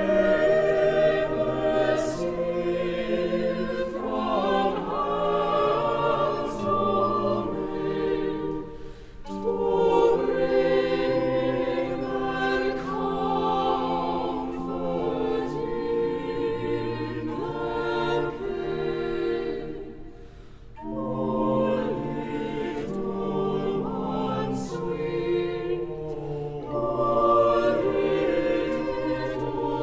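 Choir singing classical choral music in sustained chords with orchestral accompaniment, in phrases that break off briefly twice.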